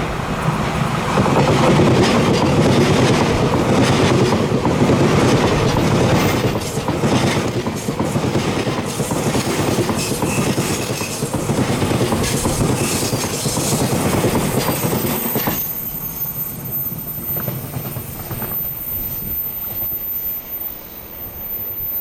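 Taiwan Railways EMU3000 electric multiple unit express running past, its wheels clacking over the rail joints. The sound is loud for about fifteen seconds, then drops off sharply to a fainter rumble.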